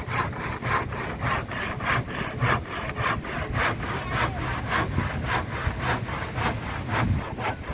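Hand saw cutting through a wooden board in steady back-and-forth strokes, about three a second.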